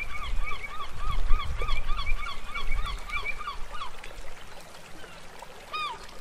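A bird giving a rapid series of short honking calls, about four a second, that stop about four seconds in, with one more call near the end. A low rumble underneath fades away by about five seconds in.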